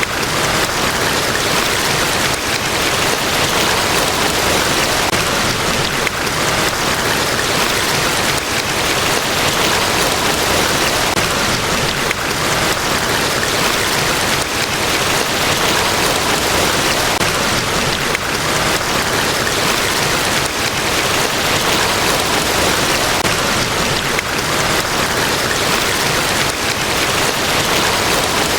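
Large waterfall, Niagara Falls: a steady, even rush of falling water that does not change.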